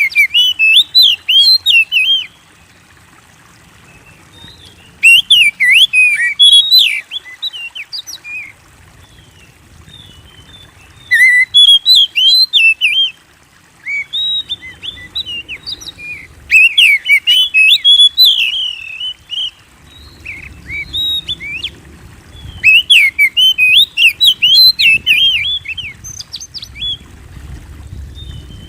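Oriental magpie-robin (kacer) singing loudly in bursts of rapid, varied whistled notes. Each phrase lasts about two seconds, with pauses of a few seconds between. This is the energetic 'gacor' song played as a lure to set other magpie-robins singing.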